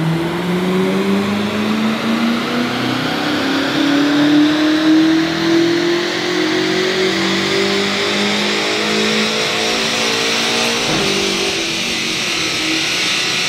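BMW M5 fitted with an Aulitzky aftermarket exhaust and intake system, run at full throttle on a chassis dynamometer for a power measurement: the engine note climbs steadily in pitch for about ten seconds, then drops away about eleven seconds in as the throttle is released.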